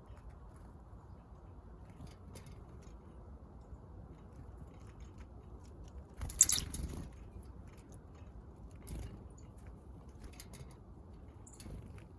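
Small backyard birds pecking at seed: scattered light ticks over steady low background noise, with one brief, much louder noise about six seconds in.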